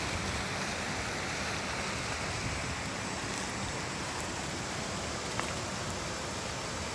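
Steady rushing ambient noise picked up by a Pixel 2 XL phone's microphone, with a faint tick about five and a half seconds in.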